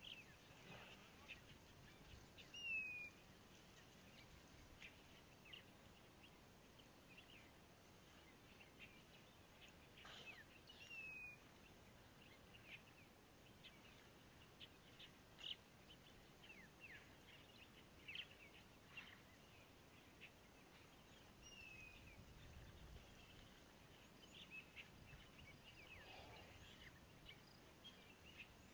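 Faint wild bird calls: scattered short chirps, with a short falling whistle heard three times, over a quiet outdoor hush.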